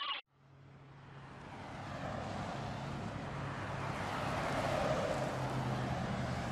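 Distant engine drone: a steady low hum under a broad rushing noise that fades in, swells toward the end and eases a little.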